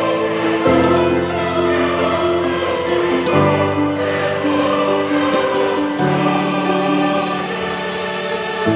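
Choral music: voices singing long held chords, changing chord every few seconds.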